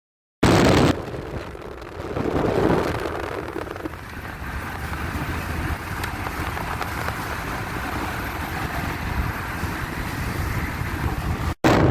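Steady rushing road and wind noise from a moving vehicle, with a low rumble underneath. It starts abruptly after a moment of silence and drops out briefly near the end.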